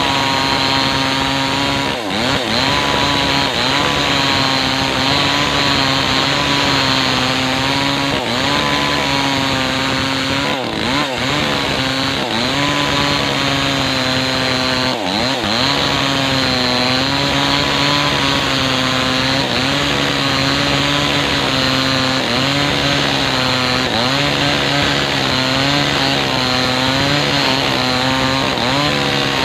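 Maestro 6500L two-stroke chainsaw running at high revs while cutting lengthwise through a kapok log. The engine note dips and recovers several times as the chain bites under load.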